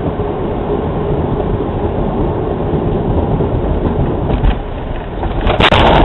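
Steady rumble and hiss of road and engine noise heard from inside a moving car, with a few sharp clicks near the end.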